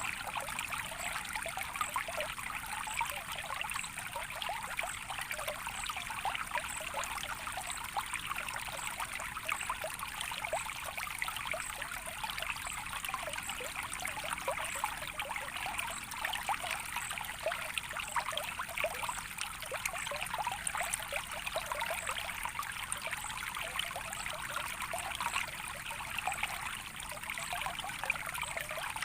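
Softly running water, trickling steadily with many small splashes and bubbles.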